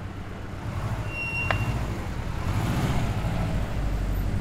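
Subaru sedan's engine running as the car drives slowly past, its low rumble growing louder as it comes close. A short high beep sounds about a second and a half in.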